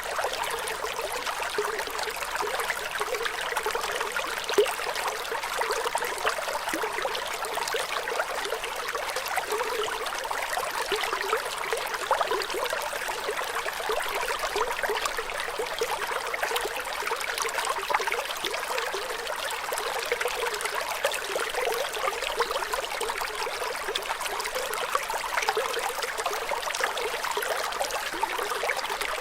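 Flowing water, a steady trickling stream with constant small splashes and gurgles and no lull, with one brief louder moment about four and a half seconds in.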